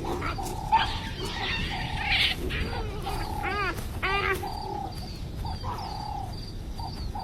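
A series of short wild animal calls that rise and fall in pitch, with two louder arching calls in the middle. Faint rapid high bird chirps run underneath.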